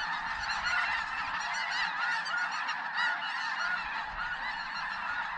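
A large flock of snow geese calling, many overlapping honks running together without a break.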